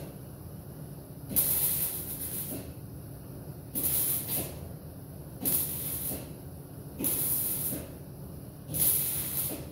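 Six short bursts of spraying hiss, each about half a second to a second long, coming roughly every one and a half seconds over a steady low hum.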